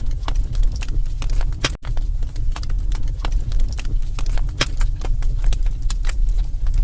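Wood fire crackling in a fireplace: irregular sharp pops and snaps over a steady low rumble of the flames. The sound drops out for an instant about two seconds in.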